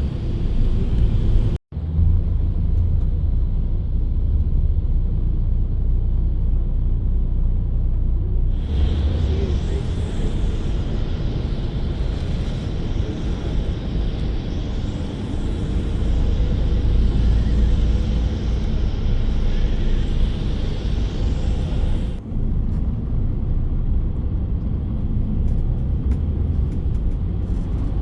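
Intercity bus on the move, with heavy low engine and road rumble. A broad hiss joins about a third of the way in and cuts off suddenly about three quarters through. The sound drops out for a moment near the start.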